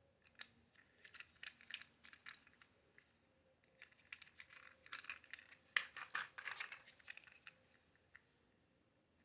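Small hard toy parts clicking and clattering irregularly as they are handled, in two busy stretches with a short pause near the middle, loudest about six seconds in.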